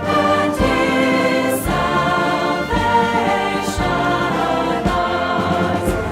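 Worship song: voices singing together over instrumental accompaniment, with a steady low beat about once a second.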